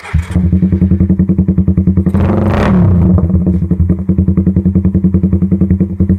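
Suzuki Raider 150 motorcycle engine idling loudly through an open Daengsai4 exhaust pipe, with an even pulsing beat and one quick blip of the throttle about two and a half seconds in.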